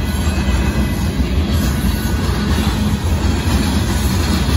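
Freight train of covered hopper cars rolling past at a grade crossing: a steady, heavy rumble of steel wheels on rail.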